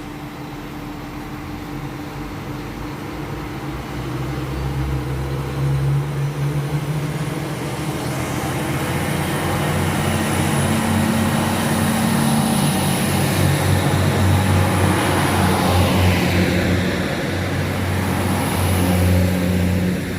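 Northern Ireland Railways Class 3000 diesel multiple unit pulling away from the platform, its diesel engines running harder as it accelerates and getting steadily louder, with the engine note stepping up in pitch a few times.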